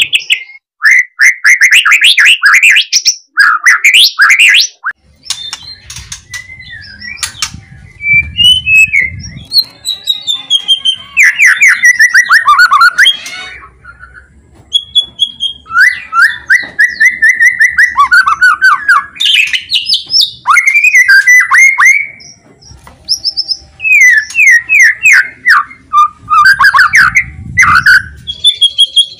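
White-rumped shama (murai batu) singing loudly in quick, varied phrases: fast runs of repeated sweeping notes mixed with rattling 'kretekan' chatter, broken by short pauses.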